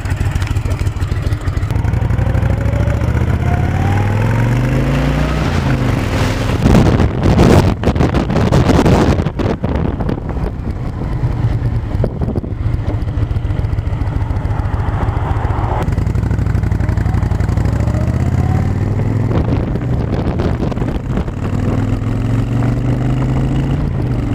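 Honda VTX1300 V-twin cruiser engine running under way, twice rising in pitch as it accelerates. About seven seconds in, a loud rush of wind noise on the microphone lasts around two seconds.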